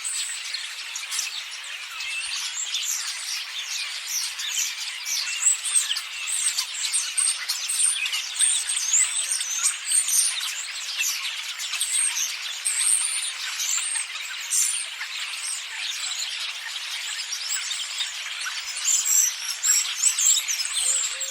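A flock of starlings chattering: a dense, unbroken mass of many overlapping short whistles, squeaks and chirps.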